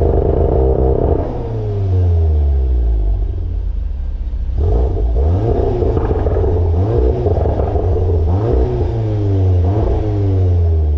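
2017 Audi S3's turbocharged four-cylinder through an aftermarket Armytrix x Karay Performance exhaust, revved repeatedly. It is held high at first, then falls away slowly. About four and a half seconds in it picks up again, followed by several quick blips up and back down.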